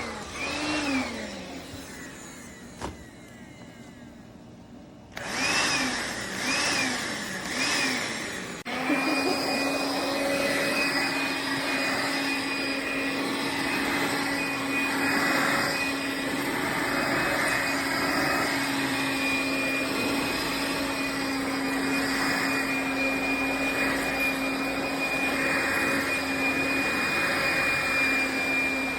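Makita XLC02ZW 18V compact cordless vacuum's motor spinning down as it is switched off, then pulsed on three times in short bursts that rise and fall in pitch, then switched on about nine seconds in and running steadily with a high whine.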